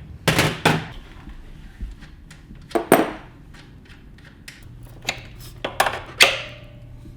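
Scattered sharp metallic knocks and clanks of hand tools on motorcycle parts while a rear shock is fitted, about six separate strikes, one a little after six seconds ringing briefly. A faint low steady hum comes in about halfway through.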